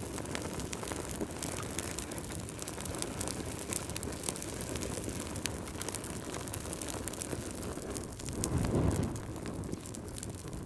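Wood fire crackling in a fireplace: frequent sharp pops and snaps over a steady low rumble of flames, which swells louder about eight seconds in.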